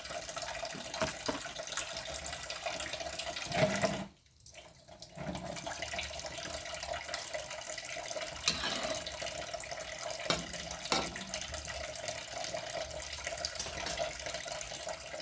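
Tap water running steadily into a kitchen sink, with a few light clinks. The flow stops briefly about four seconds in, then runs on.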